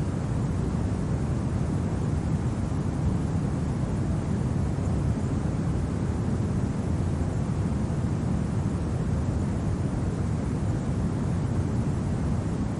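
Steady, low rumbling wind of a winter ambience recording, even throughout with no gusts or breaks.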